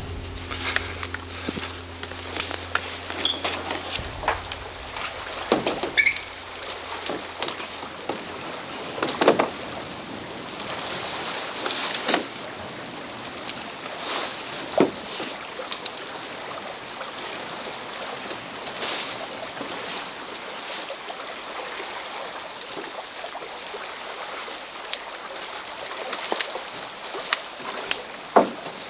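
Canoe paddle strokes in water: irregular splashes every few seconds over a steady wash of water.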